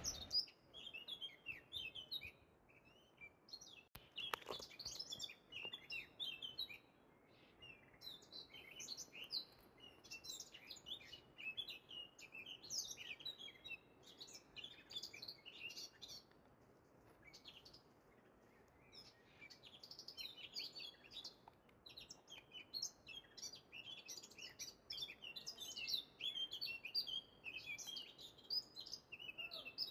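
Small songbirds chirping and twittering: many short, high calls overlapping, with a lull a little past the middle.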